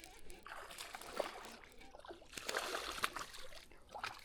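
Water splashing and trickling around a kayak, in two short bursts about a second long.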